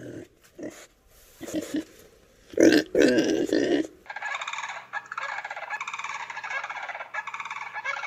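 Pigs grunting, a few short grunts that grow louder and come thicker toward the middle. Then, about halfway through, a dense, continuous chatter of birds takes over.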